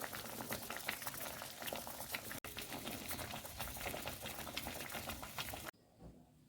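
Food cooking in a pan on the stove: a steady bubbling, crackling sizzle, cutting off abruptly near the end.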